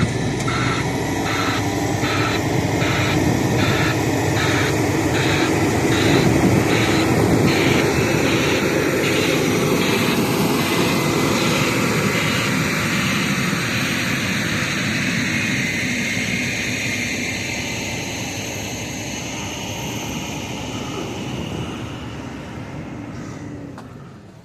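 A heavy truck's engine running loudly as it drives onto the site, with a reversing alarm beeping about twice a second that fades out about halfway through; the engine noise dies down near the end.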